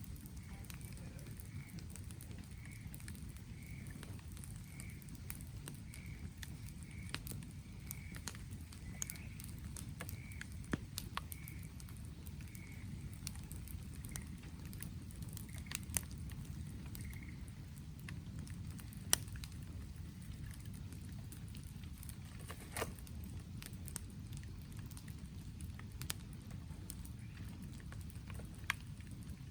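Wood campfire crackling, with sharp pops scattered through it over a steady low rush and rain pattering. During the first half a short high note repeats about every two-thirds of a second, faintly.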